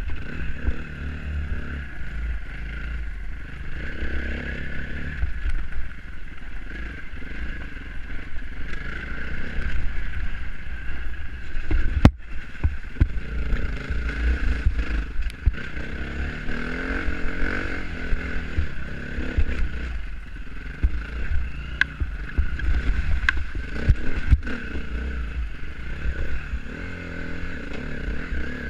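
Dirt bike engine running while being ridden, its pitch rising and falling as the throttle is worked, with heavy low rumble throughout. There are a few sharp knocks, the loudest about twelve seconds in.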